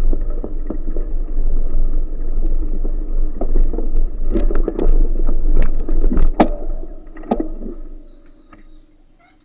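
Wind buffeting the microphone on a moving bicycle, a steady low rumble with scattered clicks and rattles from the bike, fading away near the end.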